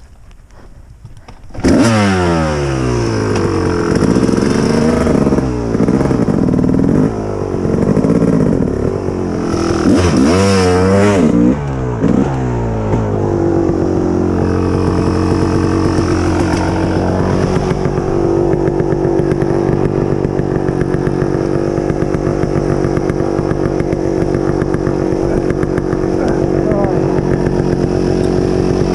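Kawasaki KX250 two-stroke dirt bike engine bursting into life about two seconds in, revved up and down several times, then settling into a steady run at an even pitch.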